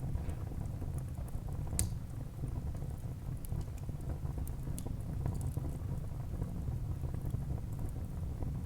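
Wood fire burning in a fireplace: a steady low rumble of the flames with scattered small crackles, and one sharper pop about two seconds in.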